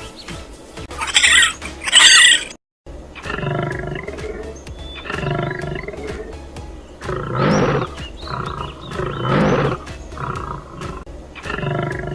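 Lion roaring in two loud, rough bursts about two seconds apart, over background music. A couple of shrill bird squawks are heard at the start, before a brief cut.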